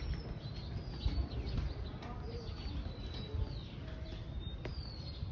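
Birds calling in short, thin, high whistles that fall in pitch, several over a few seconds, over a low fluctuating rumble.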